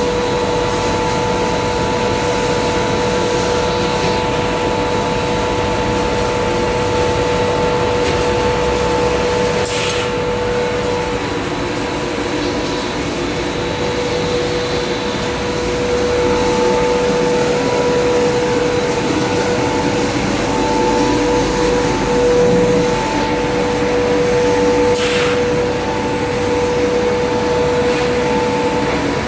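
Industrial machinery running steadily: a constant hum with a held tone over a wide rushing noise, with two brief hisses, one about a third of the way through and one near the end.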